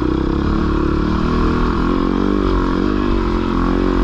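450 four-stroke dirt bike engine running, its pitch rising and dipping slightly.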